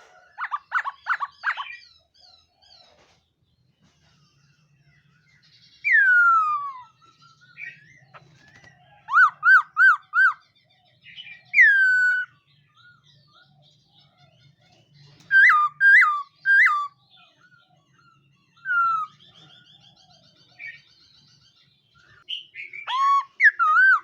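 Laughingthrush (khướu mun) singing loud, clear whistled phrases: long downward-slurred whistles and quick runs of three or four up-and-down notes, with short pauses between phrases.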